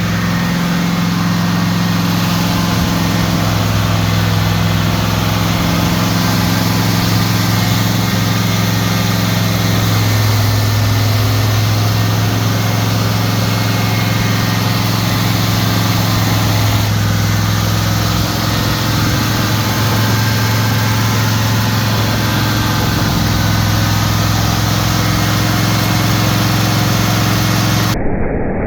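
Turbocharged Pontiac V8 running steadily at a held, raised speed during flat-tappet camshaft break-in, freshly fitted with a new camshaft and turbocharger.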